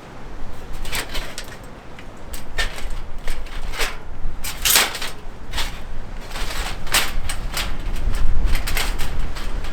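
Irregular clicks and knocks of things being handled, with a low wind rumble on the microphone that grows toward the end.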